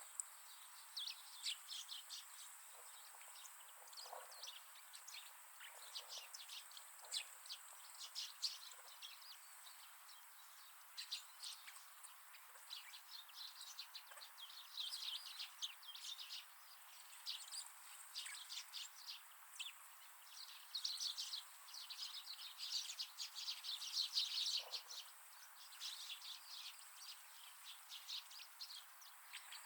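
A flock of wild birds chirping and twittering: many short, high calls one after another, thickest about halfway through and again around three-quarters of the way.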